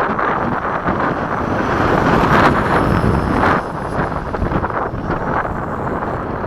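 Electric ducted fan of a Freewing 90mm F-104 RC jet rushing past in flight, swelling to a peak about two and a half seconds in and dropping away suddenly about a second later, with a faint high whine falling in pitch. Wind buffets the microphone throughout.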